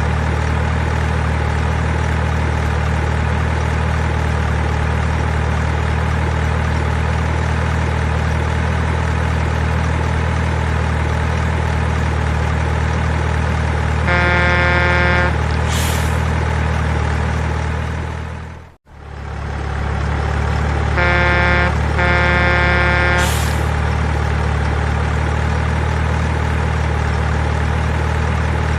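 An RC mining truck's sound module plays a steady diesel-truck engine idle. A horn sounds once about halfway through, then twice in quick succession a few seconds later, each time followed by a brief high rising sound. The engine sound cuts out for a moment between the horns and fades back in.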